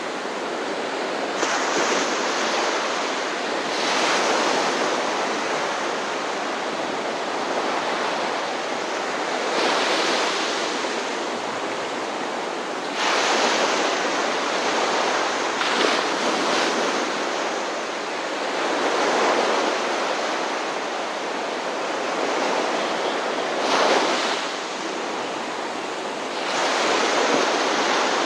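Ocean surf breaking on a shore: a steady wash of water with a wave swelling and crashing every few seconds.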